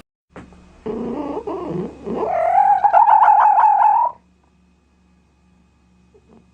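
Domestic cat meowing: a short, lower meow, then a longer, higher, wavering meow that stops abruptly about four seconds in.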